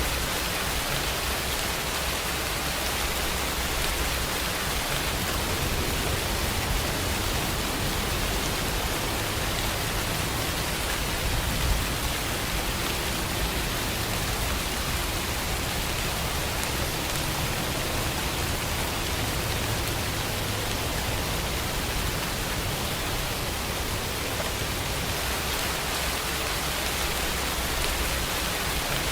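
Steady rain falling in an even hiss, with a low rumble of distant thunder through the middle.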